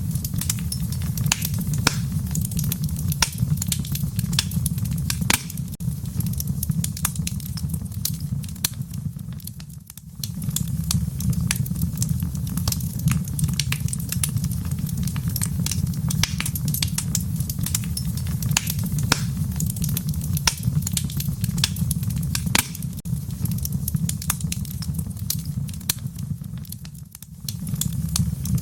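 Fire in a fireplace crackling, with frequent sharp pops over a steady low rumble. The rumble drops away briefly twice, about a third of the way in and near the end.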